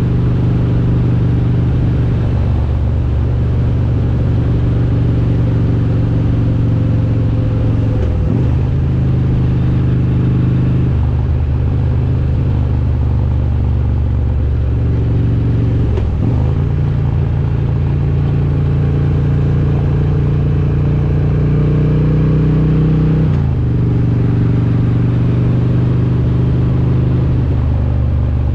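Harley-Davidson Road King's S&S 95-cubic-inch V-twin with Super Stock heads running under way. The steady engine note breaks briefly and settles at a new pitch three times, about a third, halfway and three quarters of the way through.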